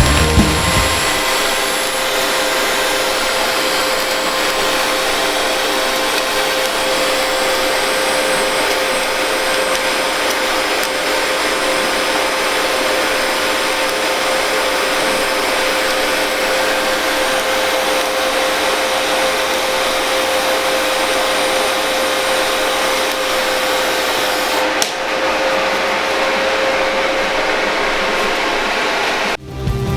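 An electric power tool running steadily with a constant whine, briefly dipping near the end before it stops.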